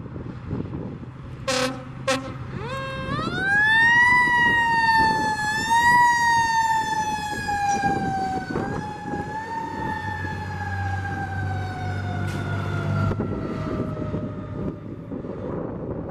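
Fire truck sounding two short horn blasts, then a mechanical siren that winds up quickly and then slowly winds down over about ten seconds, with the truck's engine rumbling underneath.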